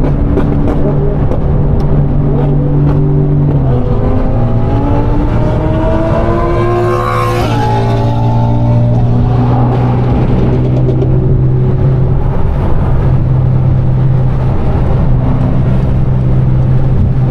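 Straight-piped Audi R8 V10 accelerating hard alongside, its exhaust note climbing to high revs over a few seconds and then dropping away, over the steady low drone of the recording car's own engine.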